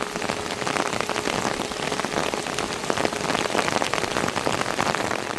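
Heavy rain falling on a hard surface: a dense, steady patter of countless drop hits.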